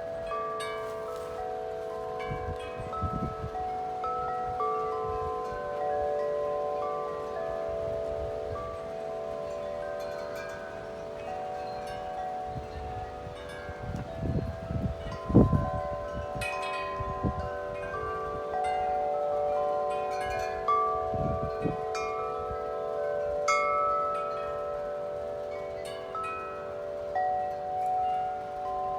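Large tubular wind chimes ringing nonstop in strong wind, many long overlapping tones struck again and again. Gusts of wind buffet the microphone, hardest about halfway through.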